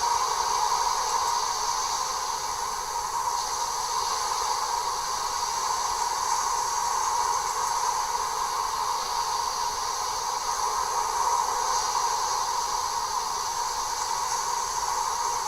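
A steady hiss, even throughout, without speech or distinct events.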